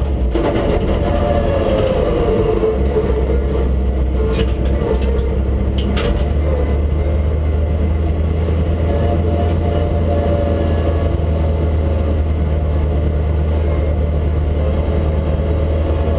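Ford Escort RS2000 Mk6's 16-valve four-cylinder engine heard from inside the cabin while driving. Its note eases down over the first few seconds, then runs at steady revs, with a few sharp ticks about four and six seconds in.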